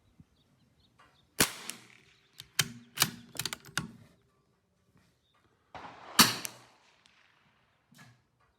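Two shots from a CZ 457 AT-ONE .22 LR bolt-action rifle, about five seconds apart, each with a short echoing tail; the second is the louder. Between them, a quick series of metallic clicks as the bolt is worked to eject the case and chamber the next round.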